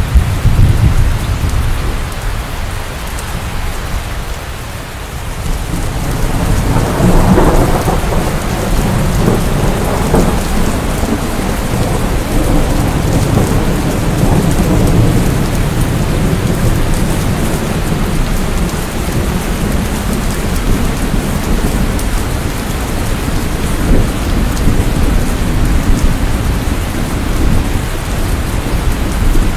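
Steady rain with thunder: a low rumble dies away in the first second, and another swells up about six seconds in and rolls on for several seconds before the rain carries on alone.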